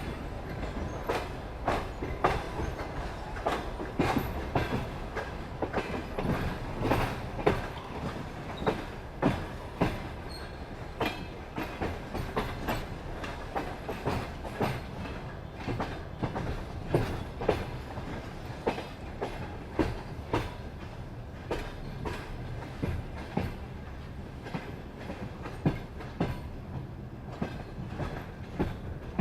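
Railway wheels clattering over rail joints and points: a steady rolling rumble broken by irregular sharp knocks, more frequent and louder in the first half and thinning out towards the end.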